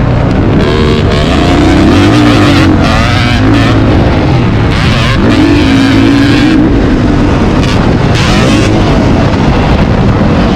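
Motocross dirt bike engine being ridden hard, revving up and backing off again and again, its pitch climbing and dropping every second or two over a heavy low rumble.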